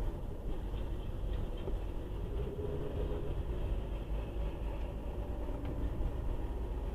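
Steady low engine and road rumble of a moving car, heard from inside the cabin.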